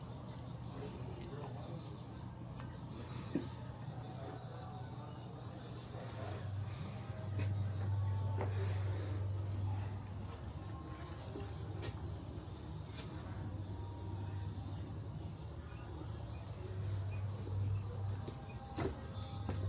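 Insects buzzing steadily in a high, even drone, with a low hum underneath that swells a couple of times.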